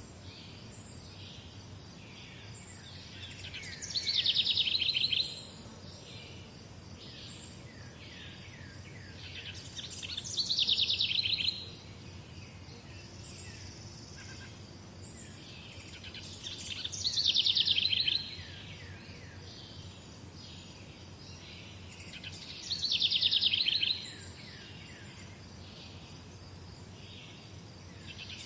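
Morning birdsong. One bird sings a loud phrase of rapid, high chirped notes about every six seconds, four times in all. Fainter chirping from other birds fills the gaps, over a steady low background rumble.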